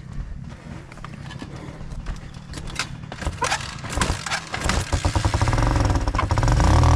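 Dirt bike engine running at low revs, with scattered clicks and knocks. It grows much louder about four and a half seconds in and revs up and down near the end.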